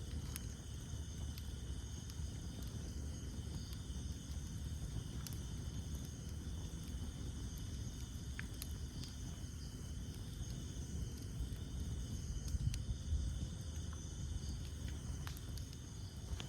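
Campfire burning with a low rumble and an occasional sharp crackle from the wood, over a steady high-pitched chorus of night insects.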